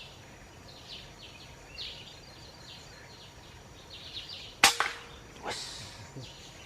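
A single sharp air rifle shot about two-thirds of the way in, with a brief rustle a little under a second later. Chirping insects and birds are heard throughout.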